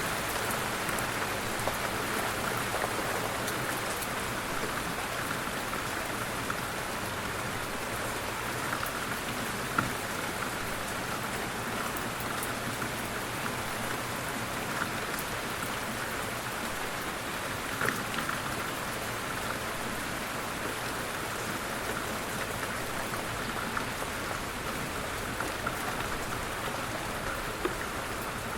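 Light rain falling steadily, an even patter of raindrops with a few louder single drops landing now and then.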